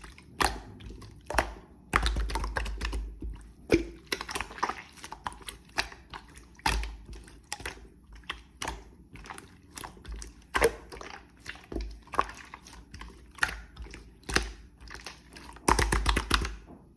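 Clear slime being worked by hand, giving irregular sticky clicks and small pops, several a second, with a few denser crackly stretches.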